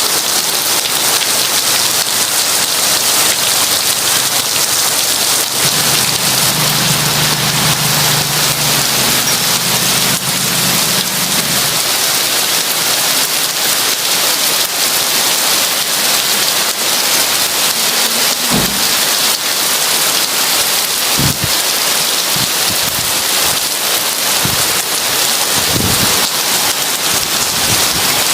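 Heavy rain falling steadily, a dense even hiss, with a low rumble of thunder from about six to twelve seconds in and a few brief low thuds in the second half.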